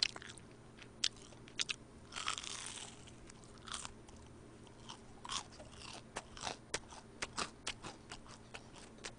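Close-miked crunching and chewing of a battered fried squid ring: a string of sharp, crisp crunches, with a longer crackly crunch about two seconds in.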